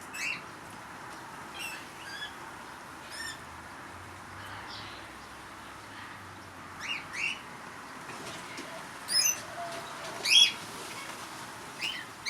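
Parrots chirping: short, high calls that sweep downward, scattered singly and in quick pairs, with the loudest ones after the middle.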